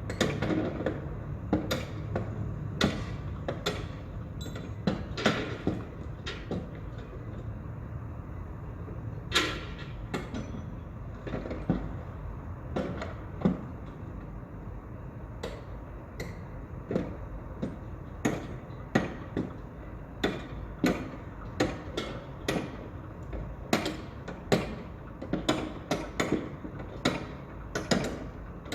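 Construction-site ambience: irregular knocks and bangs over a steady low rumble, the knocks coming more often near the end.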